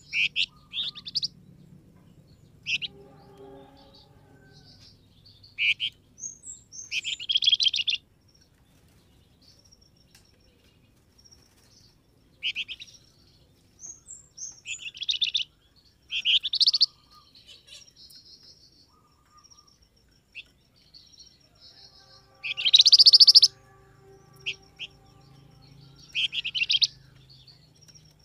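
A songbird known in Indonesia as the flamboyan calling in repeated short, rattling chirp phrases, with thin high notes scattered between them; the loudest phrase comes near the end.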